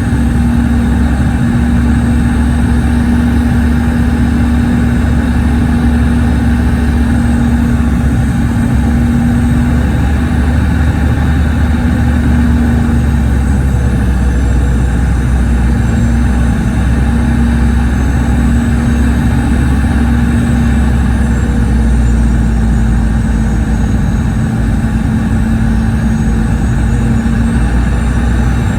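Boeing 717's rear-mounted Rolls-Royce BR715 turbofan engines running steadily, heard inside the rear cabin: a loud, deep rumble with a steady hum that falters briefly about halfway through.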